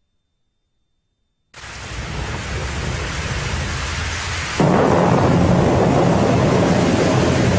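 Thunderstorm sound: a steady hiss of rain starts about a second and a half in, and about three seconds later a louder, deeper rumble of thunder sets in and carries on under it.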